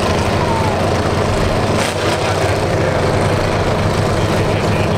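Demolition derby car engines idling steadily, a constant low rumble.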